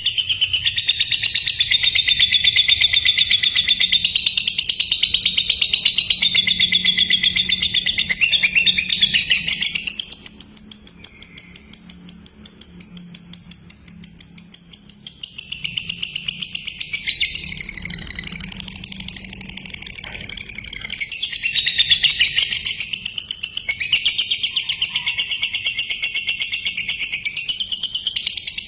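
Lovebird singing a long, nearly unbroken run of rapid high chattering notes, the continuous 'konslet' style of lovebird song; it thins out about a third of the way in and comes back at full strength past the two-thirds mark.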